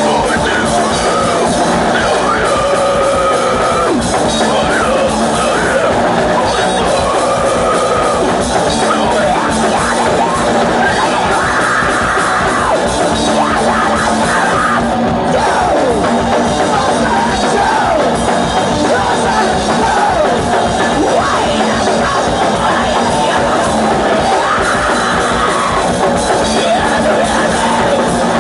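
Hardcore punk band playing live at full volume: electric guitar and drums under yelled vocals, loud and unbroken.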